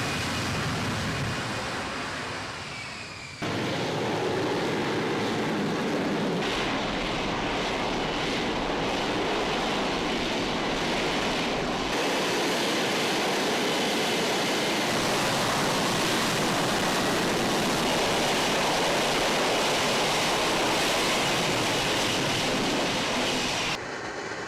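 Jet aircraft engine noise: a loud, steady rushing noise that changes abruptly several times, as if separate clips were spliced together.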